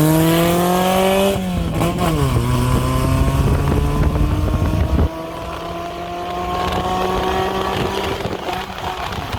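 Carburetted car engine accelerating hard from a race start. Its pitch rises, breaks and dips at a gear change about a second in, then climbs again. About five seconds in it drops suddenly in level, then keeps rising slowly in the next gear.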